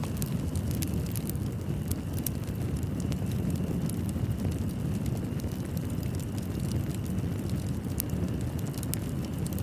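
Fireplace fire burning with a steady low rumble and frequent sharp crackles and pops of the burning wood.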